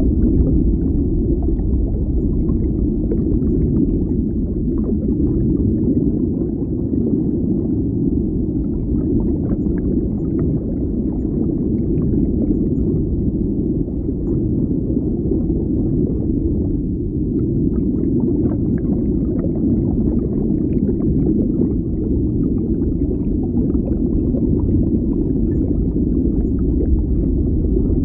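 Underwater ambience: a steady, deep rumble of water with scattered faint ticks above it.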